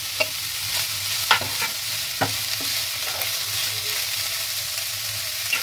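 Chopped onion and bitter gourd seeds sizzling in hot oil in a nonstick pan while a wooden spatula stirs them, with a few sharp knocks of the spatula.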